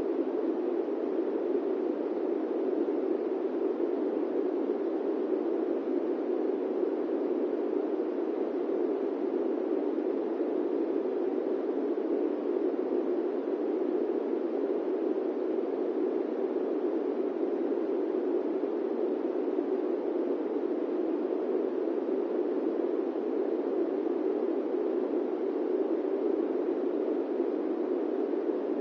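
Airplane cabin ambience used as white noise: a steady, unchanging rush with no tones or events, heaviest in the low-middle range.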